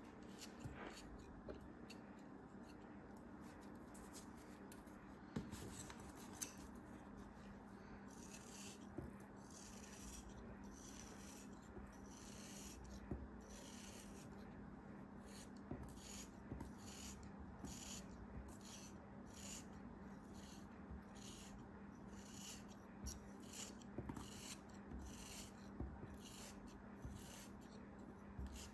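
Quiet scratchy rubbing strokes repeating evenly, a bit more than one a second, from about eight seconds in, over a faint steady hum.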